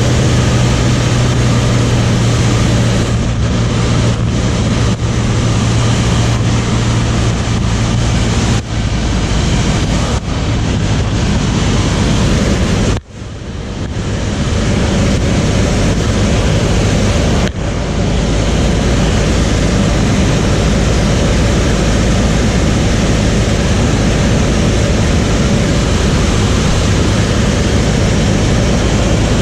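Light propeller aircraft in flight, heard from inside the cabin: the engine and propeller drone under a loud, steady rush of air noise. There is a low steady hum at the start, and the sound dips sharply for a moment twice.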